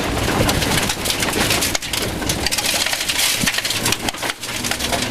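Rover 214 rally car driven hard on loose gravel, heard from inside the cabin: the engine runs under load with shifting pitch over a constant hiss and clatter of gravel and stones against the wheel arches and underbody.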